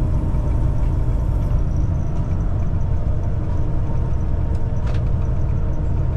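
Steady engine and road noise inside the cab of a Kenworth T680 semi truck cruising at highway speed, a constant low rumble.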